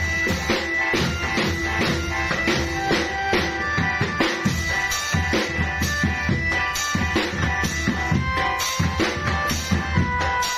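Drum-band music: many drums beating a busy, steady rhythm, with held melody notes over it.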